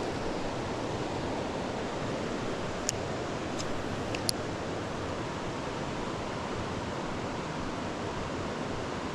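Creek water rushing steadily over rocks, with a few sharp little clicks about three to four seconds in.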